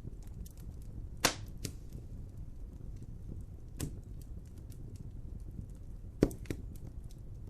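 Wood fire crackling over a steady low rumble, with many small ticks and a few sharp, loud pops, the loudest about a second in and again near the end.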